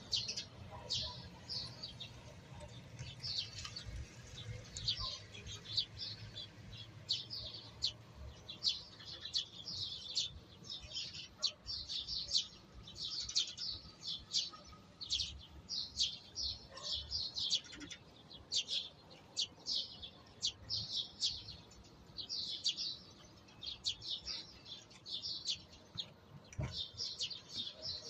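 Many small songbirds chirping and singing at once, a dense stream of short high calls that never lets up: morning birdsong.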